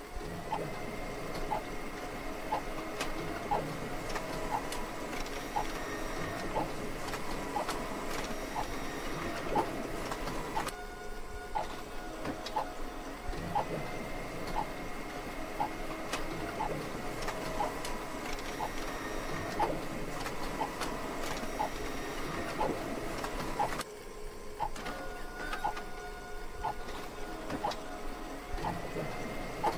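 Ceiling fan running: a steady high motor whine with a regular tick a little faster than once a second. The whine slides up into place and the pattern repeats about every thirteen seconds.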